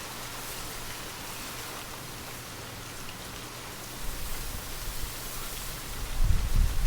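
Steady rain hiss. A low rumble comes in about four seconds in and grows louder toward the end.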